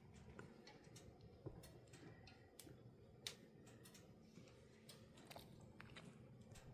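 Near silence: quiet room tone with a low hum and faint, irregularly spaced light clicks and ticks.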